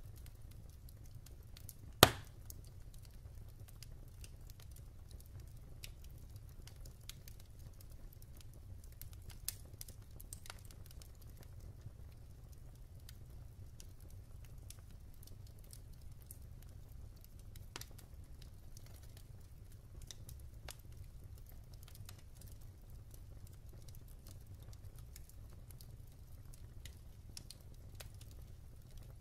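Wood fire in a fireplace crackling: scattered faint ticks and pops, with one loud sharp pop about two seconds in, over a steady low rumble.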